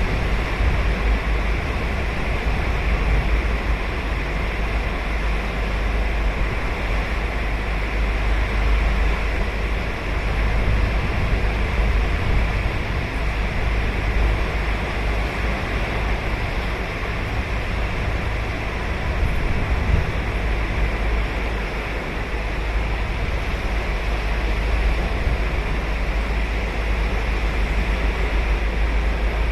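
Ocean waves breaking and washing up the beach: a continuous wash of surf that swells and eases slowly, over a strong low rumble.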